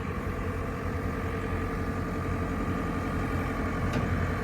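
JCB 3CX backhoe loader's diesel engine idling steadily, with a brief click about four seconds in.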